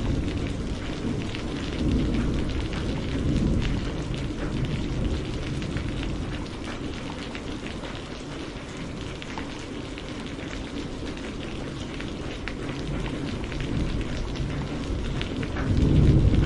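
Steady rain falling, with the patter of individual drops. A low thunder rumble dies away just after the start and rises again about a second before the end.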